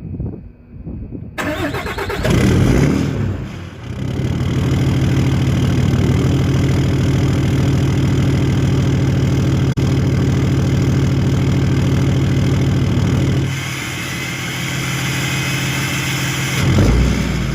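Diesel truck engine cold-started: it cranks and catches about a second and a half in, runs rough for a moment, then settles into a steady idle. The sound drops off about thirteen seconds in and swells briefly near the end.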